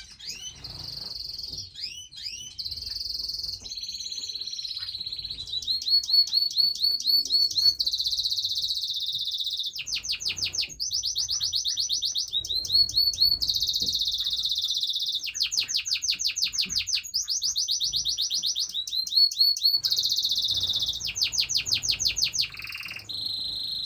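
Captive finches chirping and singing, fast trills of rapidly repeated high notes in runs of a second or two, one after another almost without a pause.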